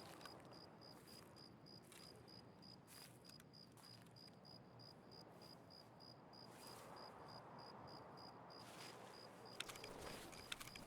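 Faint, steady chirping of a cricket, high-pitched and evenly paced at about four chirps a second, over otherwise near silence. A few faint clicks come near the end.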